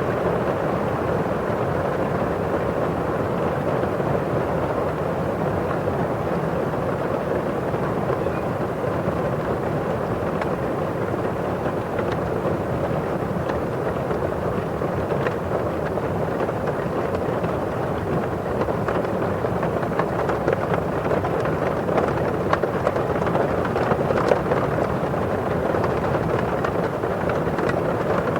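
Steady rain falling outside, with drops tapping on window glass: a dense, even rush with scattered sharper drop ticks that come more often in the second half.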